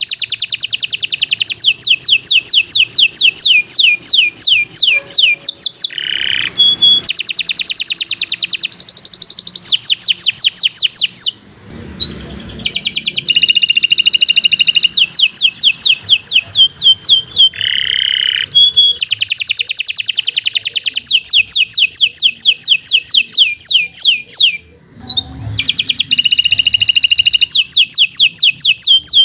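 Domestic canary singing a long, continuous song made of fast repeated-note trills and rolls, each run changing to a new note type every second or two. It breaks off briefly twice, about eleven seconds in and again near the end.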